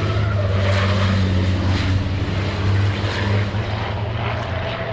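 Heavy race-truck diesel engine running at a steady low drone, with several short hissing surges on top.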